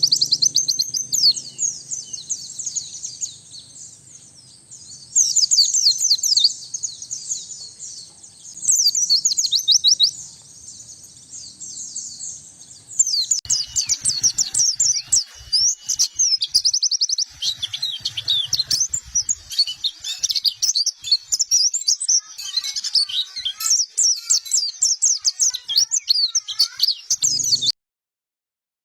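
White-eye (pleci) singing: rapid, high-pitched twittering made of quick rising and falling notes, in short bursts a few seconds apart, then running on almost without pause from about halfway. The song stops abruptly for a moment near the end.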